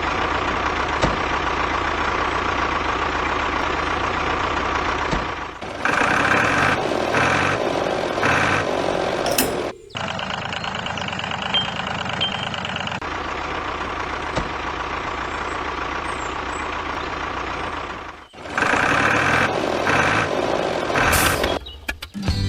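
A tractor-like motor running steadily, broken off abruptly several times by edits. Twice it is overlaid with short repeated beeping pulses, three or four in a row.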